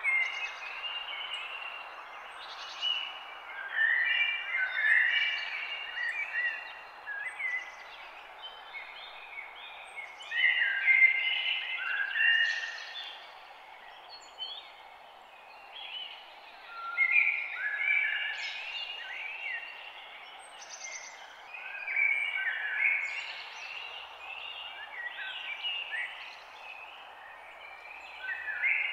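Birds singing outdoors: short, clear notes stepping up and down in phrases that come every five or six seconds, over a steady background hiss.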